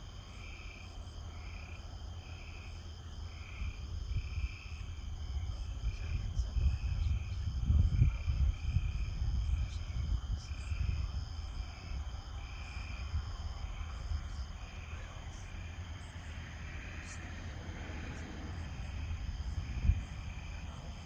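Night insect chorus: a steady high shrill with a pulsing chirp repeating about once or twice a second. Under it a low rumble swells and fades around the middle, and a single thump comes near the end.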